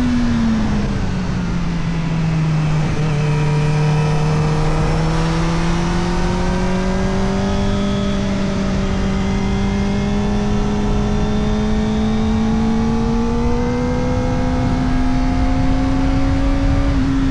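Kawasaki Ninja ZX-4RR's 399 cc inline-four running through an Arrow Indy Race Evo titanium exhaust with the dB killer fitted. The engine note drops in pitch over about the first second and a half, then climbs slowly and steadily, with a rush of wind and road noise underneath.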